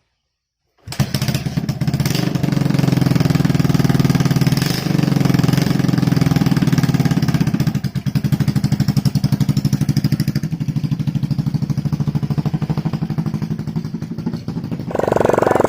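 Honda Shine 125cc single-cylinder four-stroke engine on a homemade motorcycle, running with a rapid, even exhaust beat. It comes in abruptly about a second in, and its tone shifts near the end.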